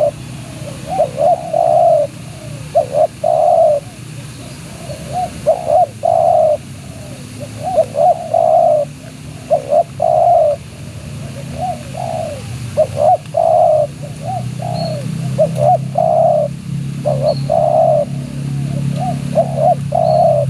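Spotted dove (tekukur) cooing its song over and over: a few short notes, then a longer rolling coo, the phrase coming round about every two seconds.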